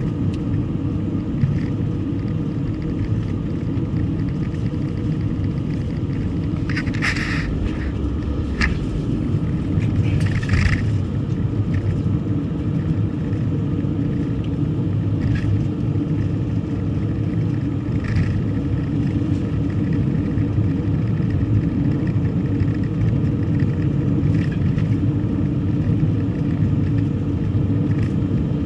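Car driving along a road: a steady low rumble of engine and road noise, with a few short hissy swishes over it, the loudest about seven and ten seconds in.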